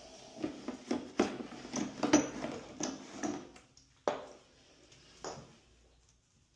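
Gloved hands working at a bathtub drain: a busy run of small knocks, clicks and scrapes on the tub and drain parts, then two sharper knocks about four and five seconds in.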